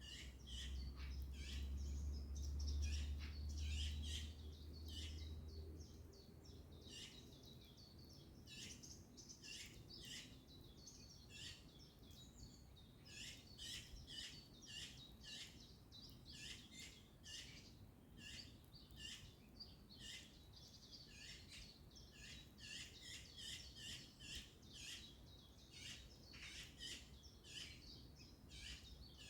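Birds chirping and calling, many short calls in quick succession, with a low rumble underneath that dies away about six seconds in.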